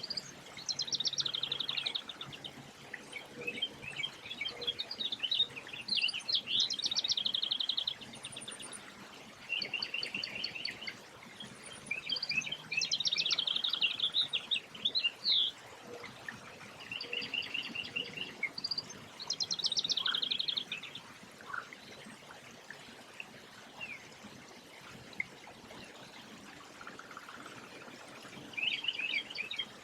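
Songbird singing: phrases of rapid chirps and buzzy trills repeated every few seconds, with a lull of several seconds near the end.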